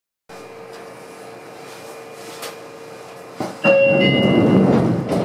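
Sotetsu 9000 series train standing at a platform: a steady hum, then about three and a half seconds in a click and a short held tone as the doors slide shut with a loud rush of air.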